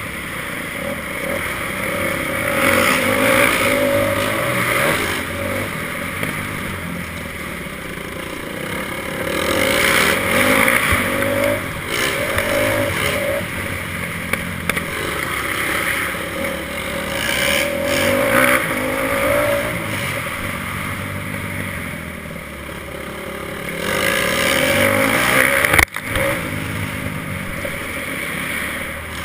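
Motocross bike engine running under load, revving up and down repeatedly as it is ridden around a dirt track. There is a brief, sudden dropout in the sound a few seconds before the end.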